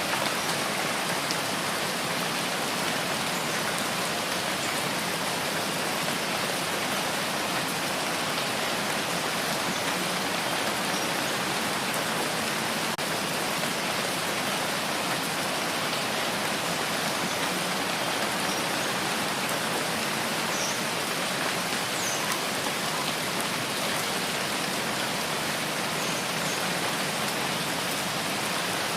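Steady rain falling: an even, continuous hiss of drops that doesn't change in strength.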